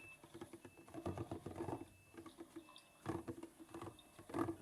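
Maytag washing machine running its delicate cycle: a motor hum and water sloshing that rise and fall in uneven surges a second or two apart.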